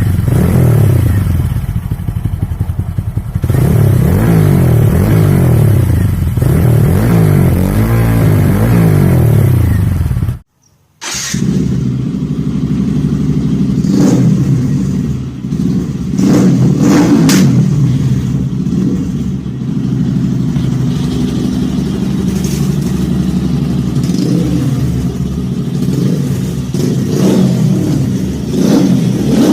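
TVS Apache RTR 200 4V single-cylinder motorcycle engine revved repeatedly through its exhaust, the pitch rising and falling with each rev. The sound breaks off for about half a second near the middle, then the engine runs at a steady idle with quick, sharp throttle blips.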